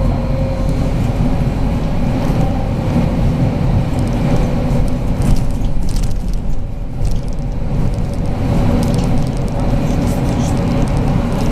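Inside a BKM 43300D trolleybus on the move: a steady low rumble from the running gear and road. A faint steady whine runs under it, and short rattles come and go.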